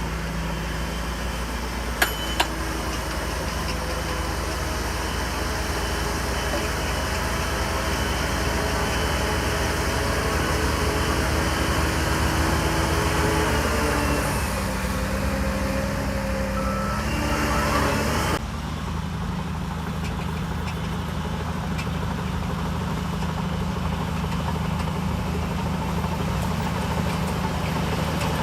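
Heavy diesel engine of a Shantui DH17C3 bulldozer running while working, with two sharp metallic clanks about two seconds in. Whining tones waver and shift over the engine for much of the time, then the sound changes abruptly about two-thirds of the way through to a steadier engine drone.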